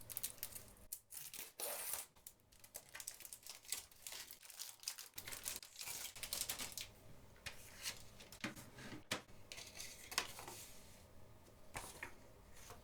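Plastic wrapping being torn and peeled off a CD case: dense crinkling and tearing for the first several seconds, then scattered crackles.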